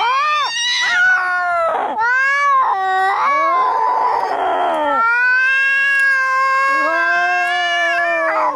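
Cats caterwauling and yowling at each other in a fight: long, drawn-out wails that rise and fall in pitch, with a harsh, hissing stretch about halfway through.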